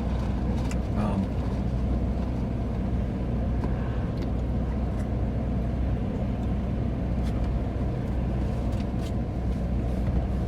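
Steady low hum of a parked car idling, heard from inside the cabin, with a few faint clicks.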